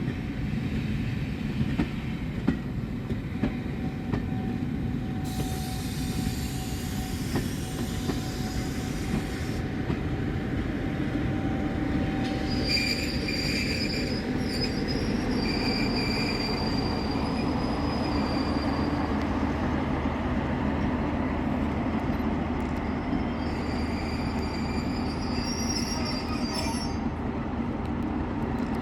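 A train moving through the station over a steady low rumble, with a few seconds of hiss about five seconds in. Its wheels squeal on the rails in thin high tones in two spells, about halfway through and again near the end.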